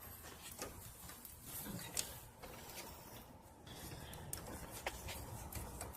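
A few light clicks and handling noises from a glue-pull dent lifter tool being fitted over a glued pulling tab and worked against a van's dented body panel.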